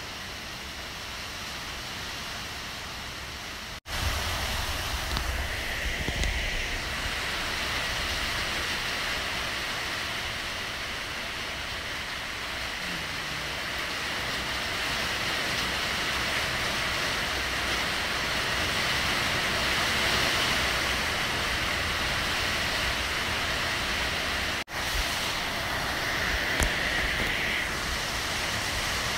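Heavy rain falling steadily, an even hiss. The sound cuts out for an instant twice, about four seconds in and near the end.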